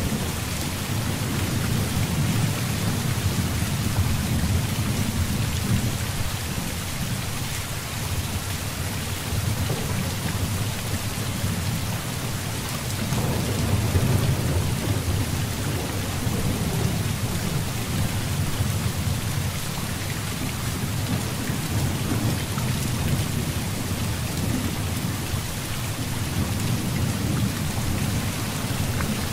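Heavy rain falling steadily with a continuous low rumble of thunder. The rumble swells briefly about halfway through.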